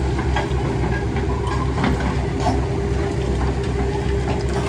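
Heavy diesel engine of construction machinery running steadily, with a few light clicks or clanks over it.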